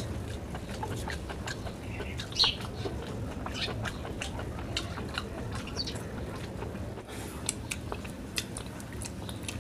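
Close-miked mouth sounds of chewing and lip smacking: scattered small, wet clicks at an uneven pace, one louder smack about two and a half seconds in, over a low steady hum.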